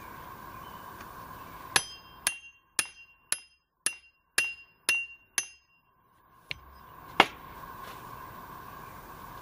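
Hammer blows on metal, about two a second: eight sharp, ringing strikes, then two more single knocks a second or so later, as the stake of a swing-out campfire grill is driven into the ground. A faint steady background hiss runs underneath.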